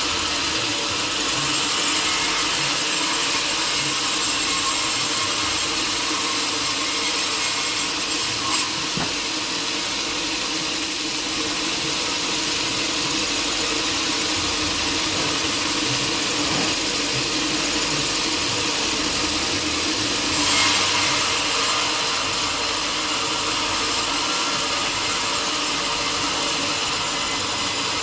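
Sawmill saw running steadily through a teak log, a continuous hiss of the blade in the wood over a motor hum, with a brief louder surge about twenty seconds in.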